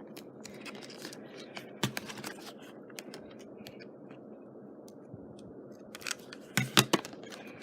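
Small crafting handling noises: scattered light clicks and rustles as fabric trim and hot glue are worked on a scrapbook page, with a cluster of sharp clicks near the end.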